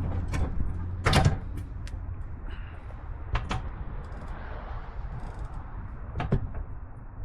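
Pedal bicycle being ridden: a steady low rumble of tyres and wind with several sharp clanks and rattles from the frame, the loudest about a second in.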